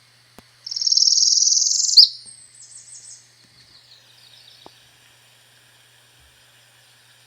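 Northern parula singing: one loud, high, buzzy trill about a second and a half long that ends in a sharp clipped note. Fainter high chirps follow for a second or so.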